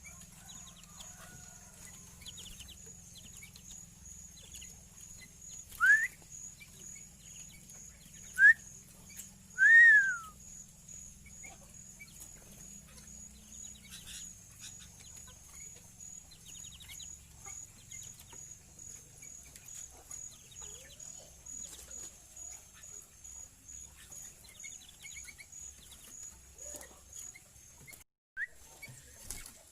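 A bird calling: three loud whistled notes that rise and arch over, about six, eight and ten seconds in, and one shorter note near the end, over a faint steady high pulsing tone.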